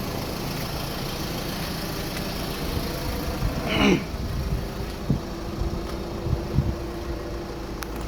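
Mitsubishi Canter truck's diesel engine idling steadily. Just before the middle, a brief sound glides down in pitch, and there are a couple of sharp clicks near the end.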